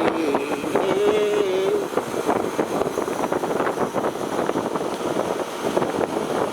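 A residential AC condensing unit running just after a compressor replacement, its compressor and condenser fan making a steady noise with irregular crackling or rustling over it.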